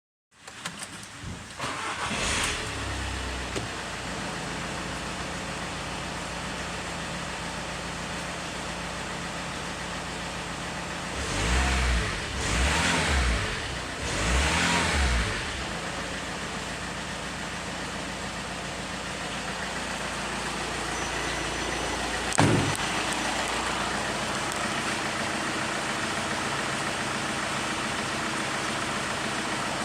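VW Transporter engine starting within the first couple of seconds, then idling steadily. It is revved briefly three times about halfway through, and there is a single sharp knock about two-thirds of the way in.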